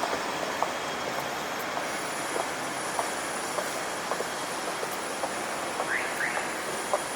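Steady city street noise with footsteps on pavement, about two steps a second.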